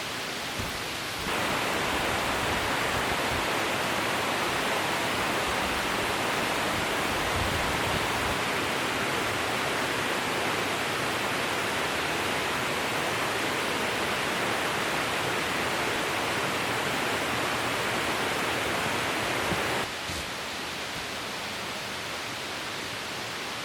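Steady rushing noise with no distinct events. It grows louder abruptly about a second in and drops back just as suddenly near the end.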